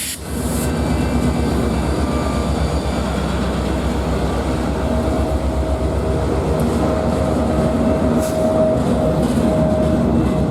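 Freight train passing at close range: a steady loud rumble of the diesel locomotive and rolling railcars on the rails. A sharp click and a brief dip right at the start, and a faint steady tone running through the second half.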